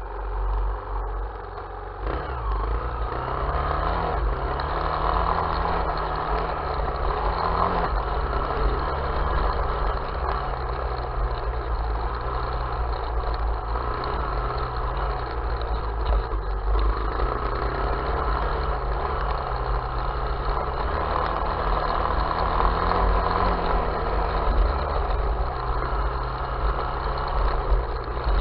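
Small off-road vehicle engine running under way, picking up about two seconds in, its pitch rising and falling gently as the throttle is opened and eased, over a steady low rumble.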